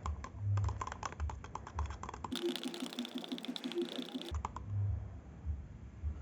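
Rapid light clicks and taps in quick succession, with low thuds. In the middle they give way for about two seconds to a steady, rapidly repeating rattle, and a few clicks follow.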